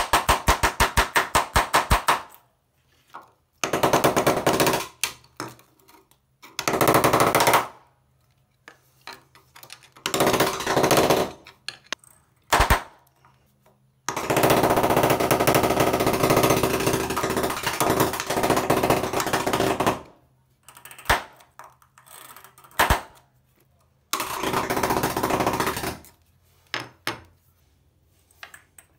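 Rapid metal-on-metal hammer taps on a nail set chipping ceramic tile off the cement board behind it, coming in runs of quick, even strikes broken by short pauses, the longest run going for about six seconds in the middle.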